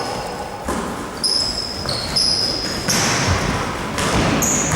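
Basketball play on an indoor court: sneakers squeaking sharply on the floor several times, and a ball bouncing.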